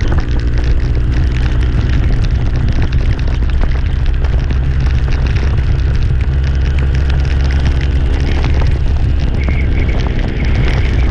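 A loud, steady low drone from a vehicle's engine, holding an even pitch with wind noise over it, as when riding along at a constant speed.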